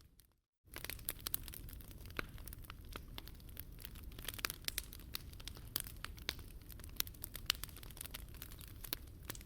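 Wood fire crackling in a Picogrill 398 fire stand, with a dense stream of sharp pops and snaps over a low steady rumble. A split-second dropout to silence comes right at the start.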